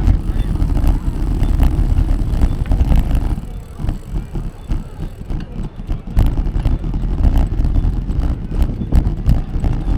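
Wind buffeting the microphone while riding a bicycle: a heavy, gusty rumble with road noise, easing off for a couple of seconds in the middle.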